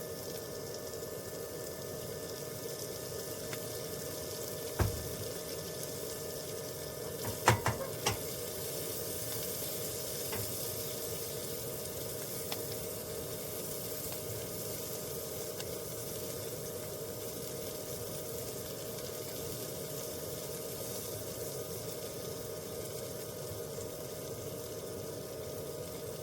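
A steady sizzling hiss with a faint steady tone under it, broken by a sharp knock about five seconds in and a quick cluster of knocks about eight seconds in.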